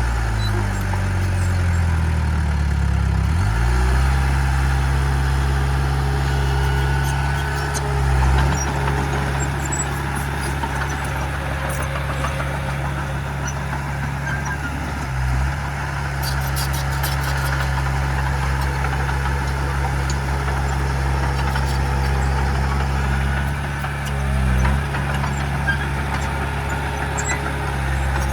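Heavy diesel engine of earthmoving equipment running under load. Its pitch sinks over the first few seconds, then holds steady, with brief swells about 8, 15 and 24 seconds in. A short run of light metallic clicks comes a little past the middle.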